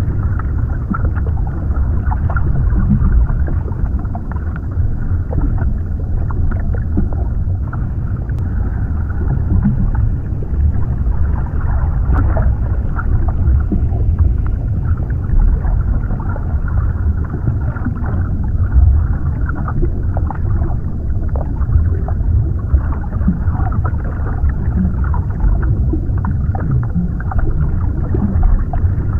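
Continuous underwater ambience: a deep, muffled rumble of water with faint bubbling and gurgling, steady throughout.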